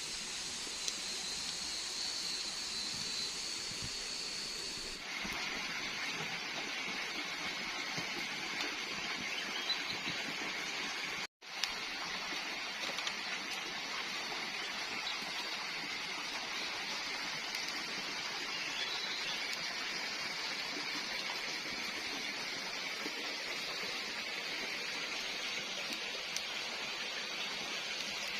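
Night forest ambience: for about five seconds, insects trilling steadily in two high tones. After a cut, a steady rushing of water with a fainter insect tone, briefly interrupted by a dropout about eleven seconds in.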